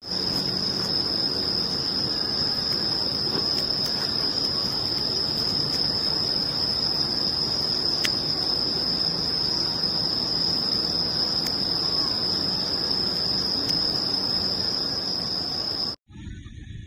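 An insect trilling in one unbroken high, steady note over a steady outdoor hiss, with a few faint clicks; it all cuts off suddenly near the end.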